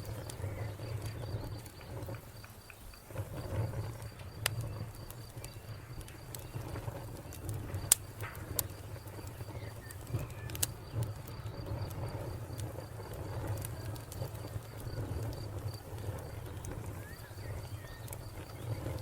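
Wood fire crackling, with scattered sharp pops over a low rumble; the loudest pop comes about 8 seconds in. A cricket chirps in an even, steady pulse throughout.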